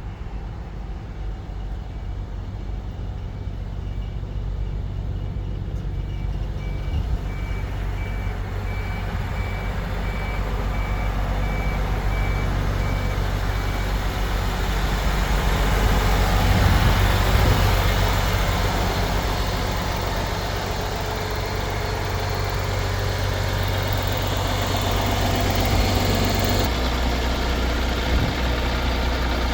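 MAN TGS 35.420 truck's inline-six diesel running, getting steadily louder for about the first half, easing off and then holding steady. A row of short, evenly spaced high beeps sounds through the first half.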